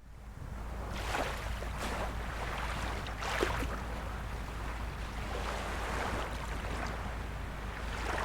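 Small waves of a calm sea lapping and washing in a few soft surges over a steady low rumble.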